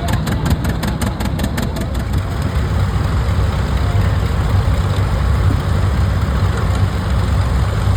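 Engine running, with a regular beat of about five pops a second for the first two seconds, then a steady low drone.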